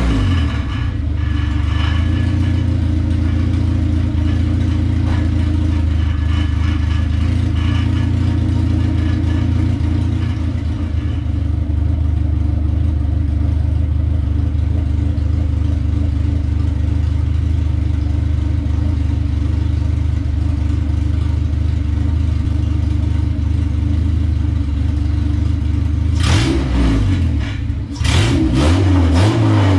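1994 Acura Integra GSR's four-cylinder engine idling steadily after sitting unstarted for about two years, then revved twice near the end, the pitch climbing and falling back each time.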